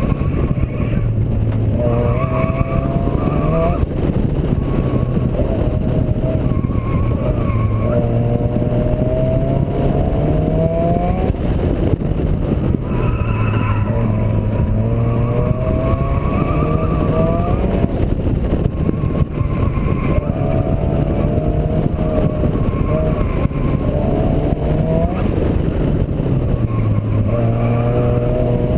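Turbocharged Honda D16 four-cylinder in a Civic, heard from inside the car under hard track driving. The engine note repeatedly climbs in pitch for a second or two, then drops back as it shifts or lifts for corners, over a steady rush of noise.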